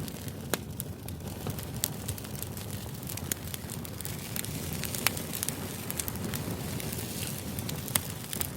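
Crackling fire ambience used as background noise: a steady low rumble with sharp, irregular pops and crackles.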